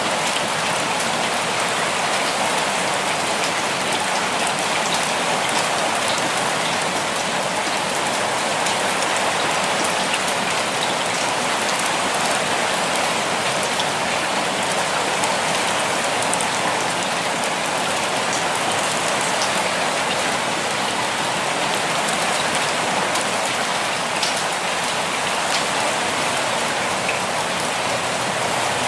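Steady rainfall on surfaces, an even hiss with the patter of individual drops.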